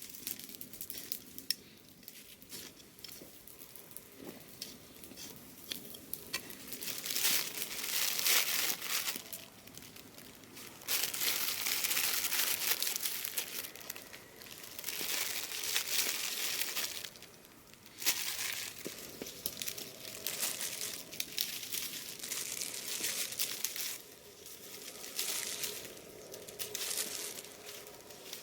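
Dry rustling and scraping in irregular stretches of a few seconds each, from work in the soil while planting garlic.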